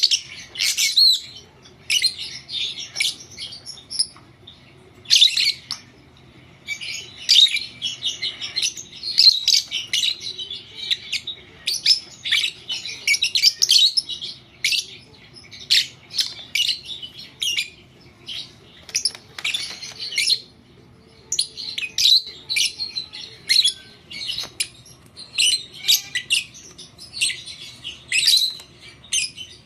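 Blue Fischer's lovebird chirping and squawking in rapid, irregular high-pitched bursts, almost without a break, over a faint low hum.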